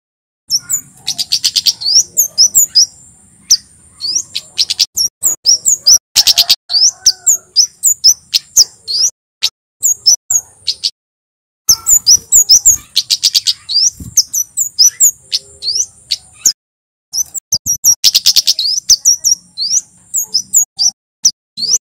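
Male kemade (flowerpecker) calling: dense runs of sharp, high-pitched chips over a steady high buzzing trill, broken by short pauses.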